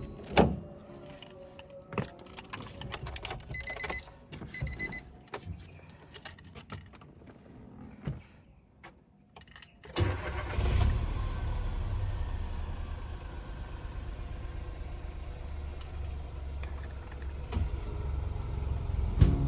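Keys jangling and small clicks and rattles, with two short electronic beeps. About ten seconds in, a 2012 Nissan March's 1.2-litre three-cylinder HR12DE engine starts and settles into a steady idle.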